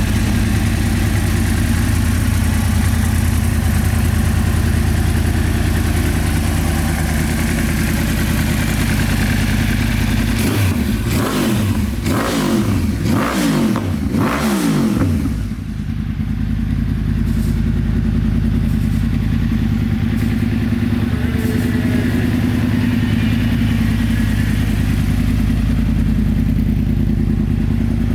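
Yamaha YZF-R1's 998 cc crossplane inline-four engine idling steadily. About ten seconds in it is blipped several times in quick succession, its pitch rising and falling, then it drops back to idle.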